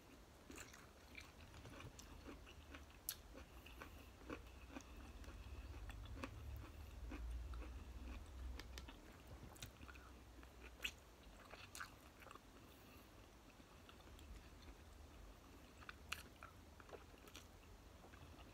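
A person chewing and biting into a sausage close to the microphone: faint wet mouth clicks and smacks throughout, with a low rumble swelling briefly in the middle.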